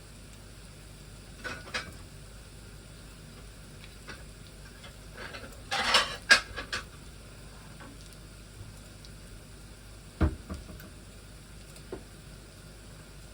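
Kitchen utensils clinking and scraping against cookware, a busy clatter about six seconds in and a single knock near ten seconds, over faint steady sizzling of food frying.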